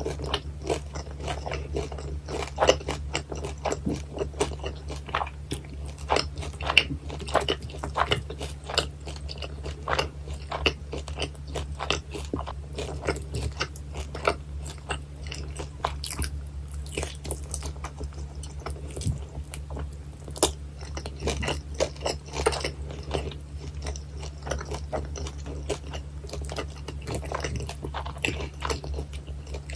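Close-miked chewing and biting of guobaorou, crispy double-fried sweet-and-sour pork: irregular crisp crunches and wet chewing, with a steady low hum underneath.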